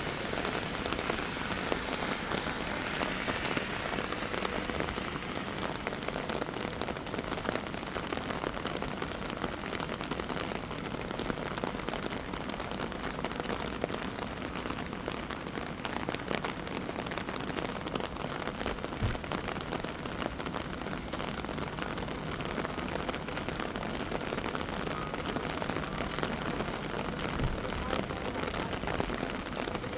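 Steady heavy rain falling and pattering on surfaces, a dense hiss of drops. Two brief low thuds, about two-thirds of the way through and again near the end.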